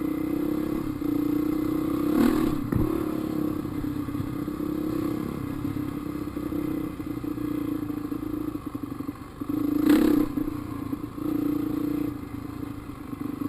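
A 450cc four-stroke dirt bike engine running steadily while riding a trail. A couple of sharp knocks cut in, one about two seconds in and another near ten seconds.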